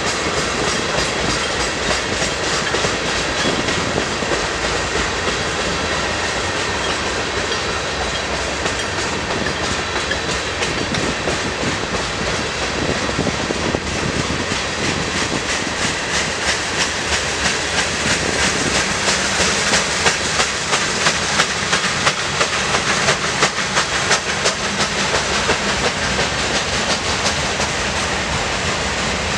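Freight train cars rolling past, a steady rumble with the wheels clicking rhythmically over rail joints; the clicking grows louder for several seconds past the middle.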